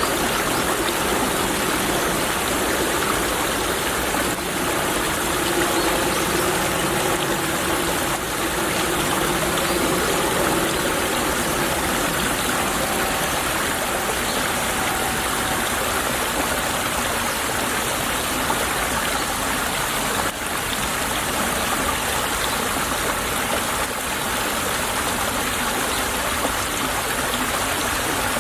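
Brook water flowing steadily, a constant babbling rush with no breaks.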